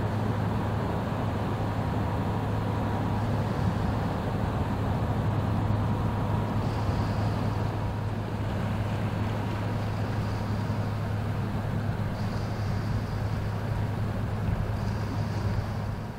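Diesel engine of a passing inland motor vessel, a steady low drone over a wash of broadband noise.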